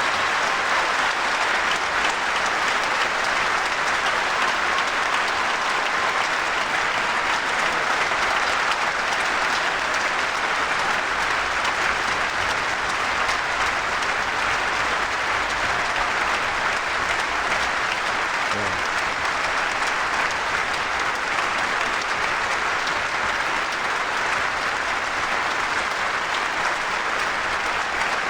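Large audience applauding steadily after a live song performance, a long sustained ovation that cuts off suddenly.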